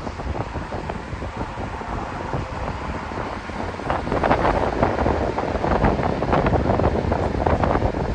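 Wind buffeting the microphone over a low rumble, getting louder and rougher about four seconds in.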